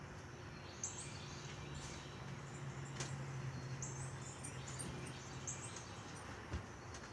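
Faint high chirps of small birds, short calls repeating every second or so, over a low steady hum that fades out about two thirds of the way through.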